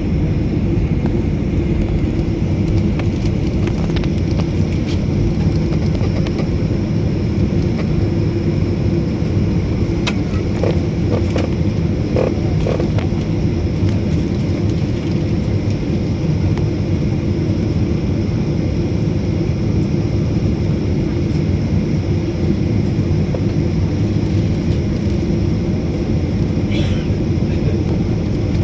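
Steady low rumble of an airliner's engines, heard from inside the passenger cabin as the plane taxis before takeoff. A few faint clicks come about halfway through.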